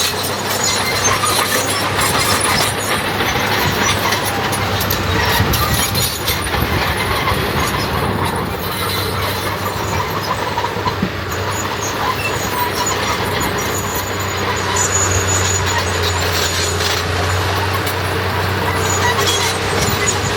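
Heavy diesel earthmoving machinery running steadily at work, with a constant low engine hum and scattered clanking and rattling.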